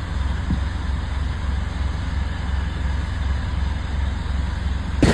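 Steady low rumble of a motor vehicle running. Near the end it cuts suddenly to a louder, fuller noise.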